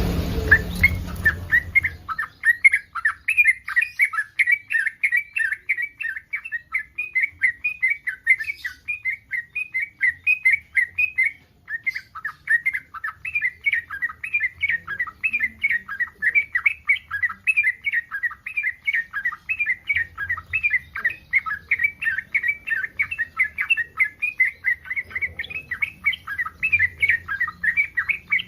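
Yellow-vented bulbul (trucukan) in breeding condition, calling in a fast, unbroken run of short chattering notes, about four a second, with one brief break about eleven seconds in. This is the excited call used to lure other bulbuls into answering. A rush of noise fades out over the first two seconds.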